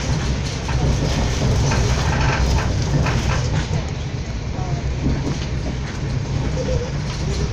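A train running, heard from inside the carriage: a steady low rumble with a few clicks of the wheels over rail joints.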